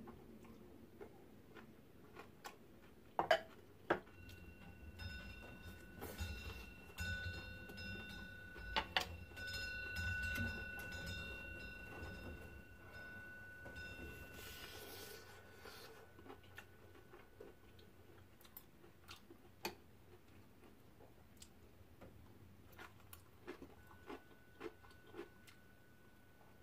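Close-up eating sounds: chewing and small mouth clicks, with scattered sharp ticks of metal chopsticks against dishes. A faint high steady tone sounds in the middle and again near the end.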